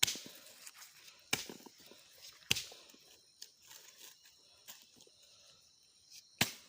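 Sharp, separate knocks a second or more apart, four loud ones and a few fainter ones: palm fruit bunches being struck with an axe to knock the fruit loose.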